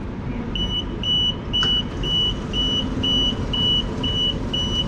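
An ÖBB Railjet's door warning beeper sounding a high beep about twice a second, starting about half a second in, over the low rumble of the train standing at the platform.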